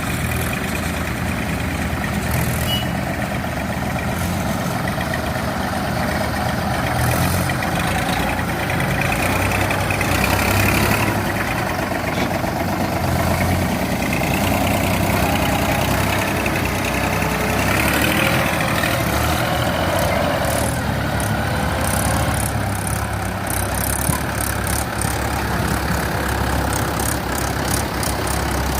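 Diesel engines of farm tractors and a Cat E120 excavator running steadily. A higher whine comes and goes in the middle, and rapid rattling clicks are heard near the end.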